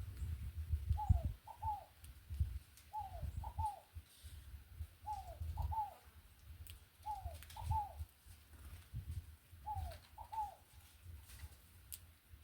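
A dove cooing over and over: a three-note phrase, one soft falling note followed by two quick ones, repeated about every two seconds. A low rumble runs underneath.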